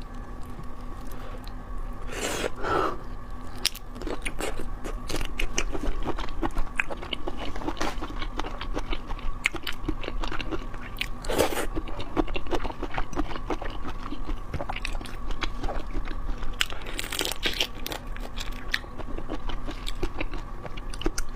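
Close-miked eating of prawns: irregular crunching, biting and wet chewing throughout, with a few louder crunches.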